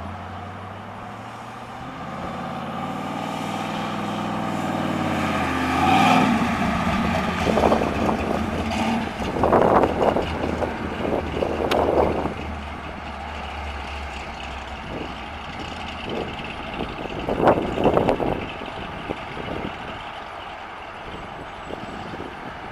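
The 1970 AMC AMX's 401 cubic-inch V8 accelerating, its pitch rising for a few seconds and breaking off about six seconds in. It then runs on at lower revs under irregular gusts of wind noise on the microphone.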